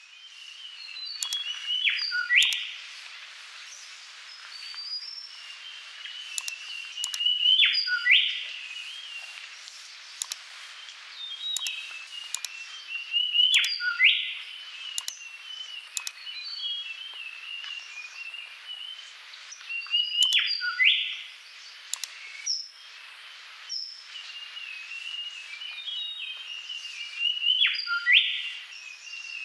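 Birdsong: steady chirping and twittering, with a louder phrase ending in a quick downward-sweeping call that comes back about every six seconds, like a looped nature recording.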